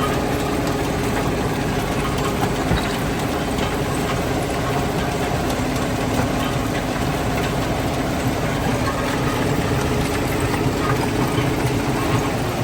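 Stone-crushing plant machinery running steadily: a constant heavy mechanical drone with a low hum and scattered small knocks.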